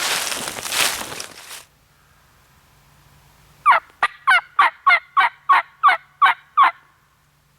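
Footsteps crunching through dry leaves briefly. Then, after a pause, a loud run of about ten evenly spaced turkey yelps, about three a second.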